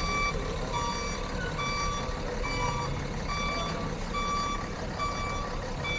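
A truck's reversing alarm beeping steadily at a bit more than one beep a second, over the low rumble of the truck's engine.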